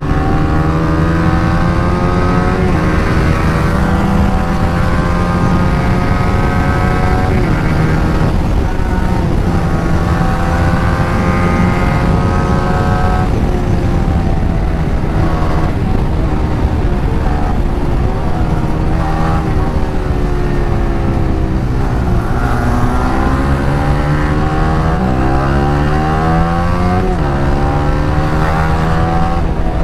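Sport motorcycle engines under hard acceleration, the pitch climbing through each gear and dropping sharply at each upshift, with revs dipping and rising again later on.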